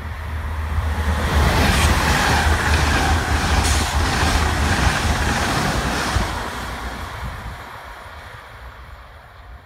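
ICE high-speed train passing through at speed: a rush of wheel and air noise that swells over about a second, holds for several seconds with a couple of sharp clicks, and fades away as the train recedes.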